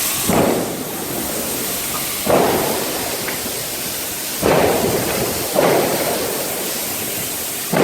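Large diesel engine running loudly with a steady hiss, broken by sudden bursts about every one to two seconds.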